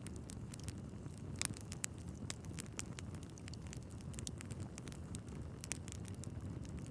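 Wood fire in a fireplace burning steadily, with a low rumble of flames and scattered sharp crackles and pops from the logs, two louder pops standing out.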